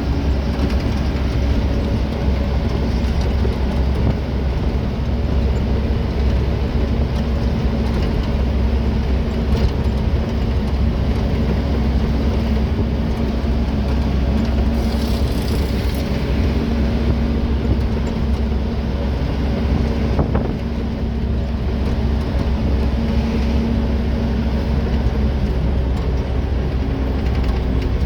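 Loaded truck driving on the road: a steady diesel engine drone with road rumble, unbroken throughout.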